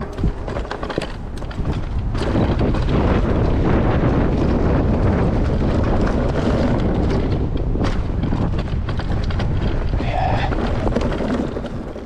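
Wind rumbling on the microphone over tyre noise and clattering rattles from an electric mountain bike riding over a trail. It grows louder about two seconds in and eases off near the end.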